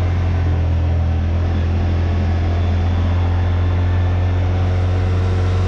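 Yamaha RMAX side-by-side's engine running at a steady pace while driving, heard from inside the vehicle as a constant low drone with road noise.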